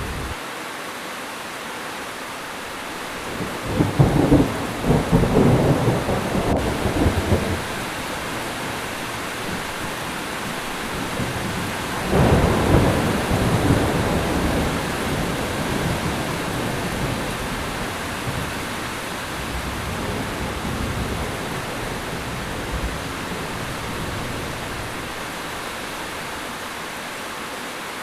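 Heavy rain falling steadily, with a loud thunderclap rumbling for about three seconds starting about four seconds in, and a second peal of thunder about twelve seconds in that slowly dies away.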